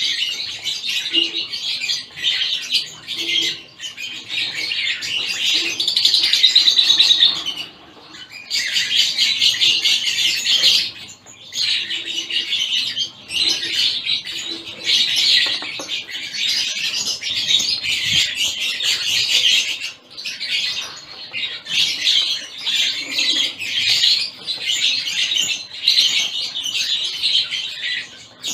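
A flock of small cage finches (zebra finches, Gouldian finches, society finches and the like) chirping and calling together in a dense, continuous chatter, with a few brief lulls.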